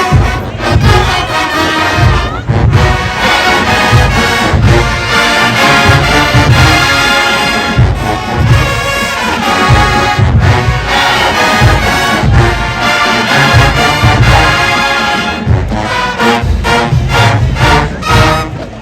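Marching band playing at full volume: brass section carrying the tune over a pounding bass-drum beat, closing near the end with a run of short, punched ensemble hits.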